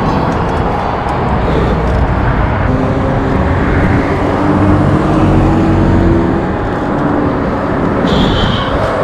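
Steady rush of wind and road noise recorded on a moving e-bike, with motor traffic passing.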